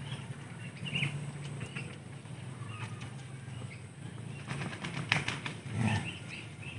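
Small birds chirping now and then over a low steady hum, with a quick run of clicks about five seconds in.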